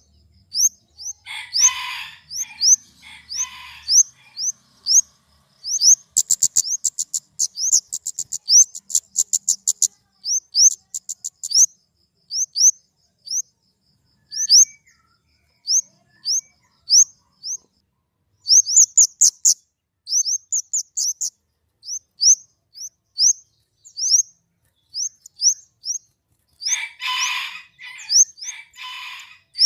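Flowerpecker (kemade) calling: thin, high chirps repeated about every second, breaking into fast rattling trills about six seconds in and again around nineteen seconds. Harsher, lower chattering bursts come near the start and again near the end.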